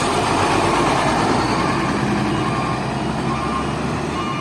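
Hino FL 260 JT truck's six-cylinder diesel engine running steadily under a dense, even noise.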